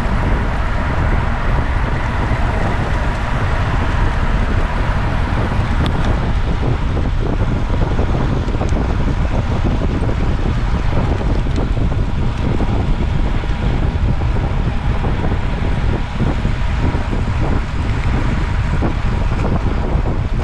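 Heavy, steady wind rush over the microphone of a moving camera, with a faint steady whine underneath.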